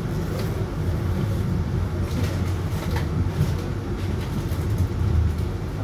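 Running noise heard inside a moving regional passenger train: a steady low rumble of the wheels on the track, with a few light clicks between about two and three and a half seconds in.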